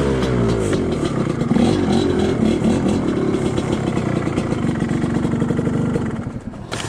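Two-stroke dirt bike engine under way on a trail, revving up sharply at the start, then rising and falling with the throttle. It eases off near the end.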